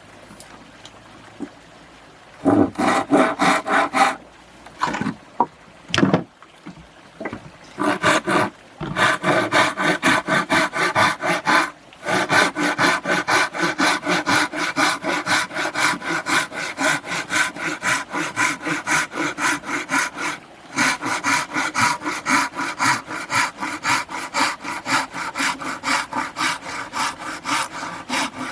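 Hand saw cutting through wood in quick, even back-and-forth strokes, about three a second, in runs broken by a few short pauses.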